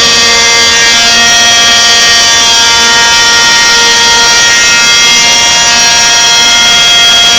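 Very loud two-stroke Zenoah 27 petrol engine with an RJX tuned exhaust on a Trex 600 RC helicopter running steadily at hover, its pitch shifting slightly now and then.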